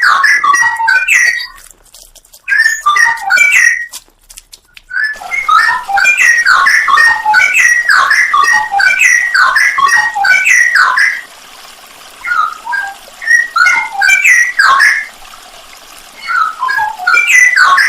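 Straw-headed bulbul (cucak rowo) singing loud, rapid phrases of whistled notes in bursts separated by short pauses.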